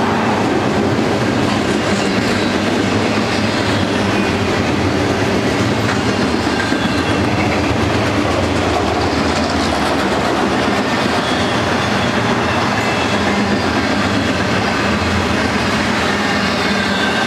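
Intermodal freight cars, double-stack container wells and trailer flatcars, rolling past: a steady, loud rumble of steel wheels on rail with clicking over the rail and faint high wheel squeals.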